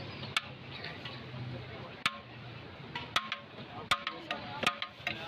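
Metal utensils clanking irregularly, about six or seven sharp knocks with a short ring, as biryani is served from a pot. Background voices and street noise run underneath.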